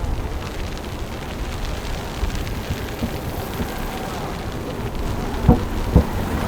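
Outdoor city street ambience: a steady low rumble with faint voices, and two sharp knocks near the end.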